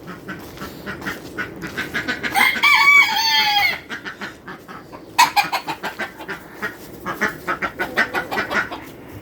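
Chickens clucking in rapid runs, with one long, loud call with a stepped pitch about two and a half seconds in.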